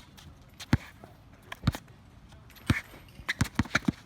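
Basketball bouncing on a hard outdoor court as a player dribbles, about one bounce a second, then a quick flurry of bounces and footsteps near the end.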